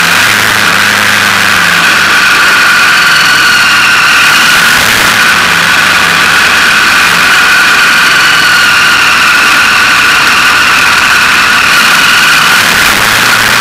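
KTM motorcycle engine running steadily, heard loud through an action camera's microphone, its pitch rising and falling gently with the throttle.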